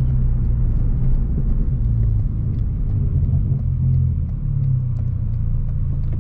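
Hyundai Veloster Turbo's 1.6-litre turbocharged four-cylinder running steadily at cruising speed, with a low exhaust tone through a straight-piped exhaust whose resonator and muffler have been deleted, heard from inside the car.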